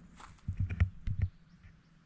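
A quick run of dull thumps and clicks, about six in under a second, then quiet background.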